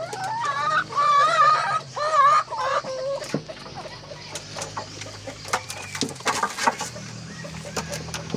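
Domestic chickens clucking. In the first three seconds there are loud, wavering, drawn-out calls, then short clucks and scattered sharp clicks.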